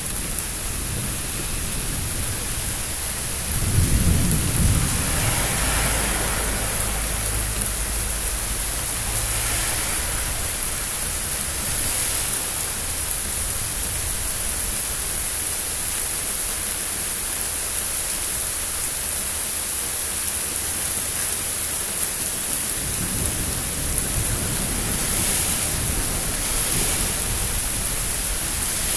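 Steady rain hissing during a thunderstorm, with thunder rumbling twice: a loud low rumble about four seconds in, and another rolling rumble building near the end.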